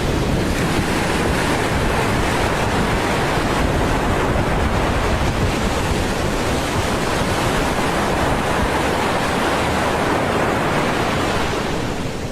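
Steady rushing noise with no distinct events, easing off slightly near the end.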